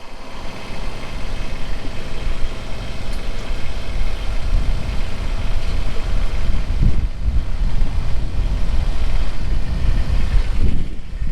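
Kubota BX23S compact tractor's three-cylinder diesel engine running steadily as it powers the backhoe digging into a stump's roots.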